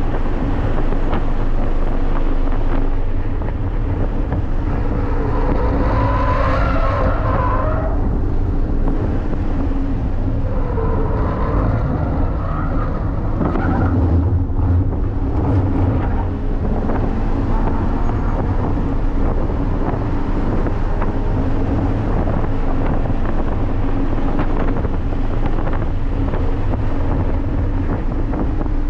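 Toyota GR86's 2.4-litre flat-four engine driven hard on track, heard from inside the cabin. Its pitch climbs and falls repeatedly with throttle and gear changes.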